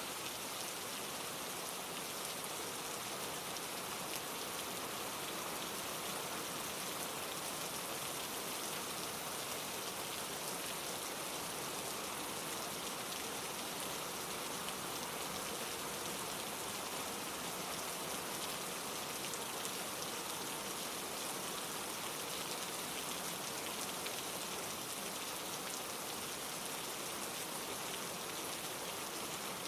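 Steady rain: an even hiss of many small raindrops falling without pause.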